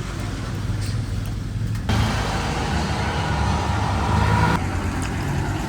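Street noise with a motor vehicle's engine running steadily, the background changing abruptly twice.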